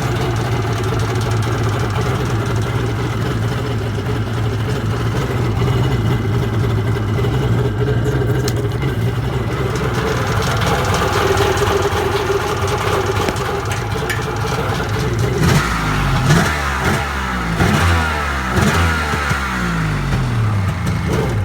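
Kawasaki ZXi 1100 jet ski's two-stroke three-cylinder engine idling steadily while being flushed after a run. From about fifteen seconds in it is revved in a string of quick blips, its pitch rising and falling several times.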